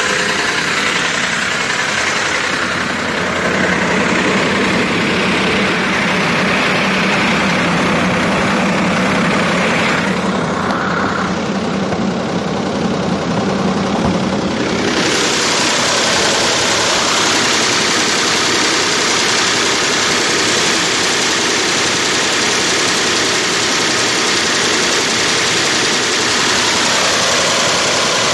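The BMW M62 V8 of a 2005 Range Rover idling steadily just after starting. About a third of the way through, the higher part of the sound fades for a few seconds, then comes back fuller.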